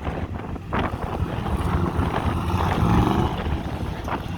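Chevrolet C10 race truck's engine pulling away onto the autocross course for its first lap, its pitch rising as it accelerates in the second half. Heavy wind noise on the microphone.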